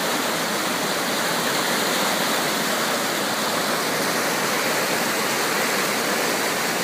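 Swollen, flooded creek rushing fast and loud, a steady, even roar of fast-moving floodwater.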